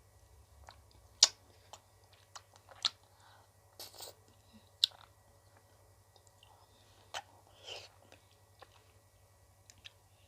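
Close-miked eating sounds of ice cream: a dozen or so sharp bites and crunchy snaps at uneven intervals, with a few short, softer chewing noises between them.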